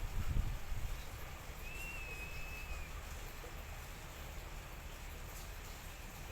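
A bird calling one long, thin, clear whistle, slightly arched in pitch, about a second and a half in; the call repeats about every five seconds. Low rumble at the start.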